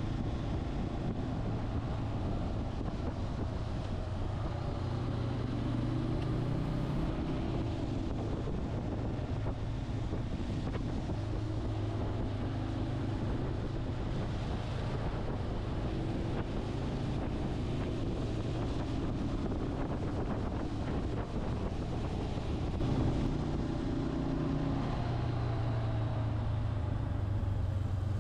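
Motorcycle running on the road, with wind rushing over the microphone; the engine note shifts up and down a little with speed.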